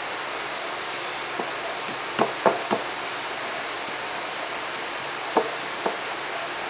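A steady hiss with a handful of light knocks and taps from kitchen work on a hard surface: three in quick succession around the middle, then two more near the end.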